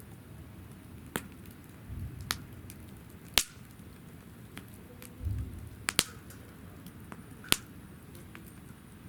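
Wood campfire in a fire-pit stand crackling, with about six sharp pops spread through it, two close together about six seconds in. Two brief low rumbles from the flames come about two and five seconds in.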